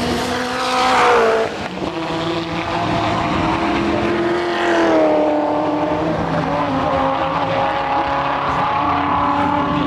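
V8 Supercars' V8 engines running at race speed past the track edge: one car passes about a second in with its pitch dropping, another passes with a falling pitch around the middle, and engines keep running at high revs after.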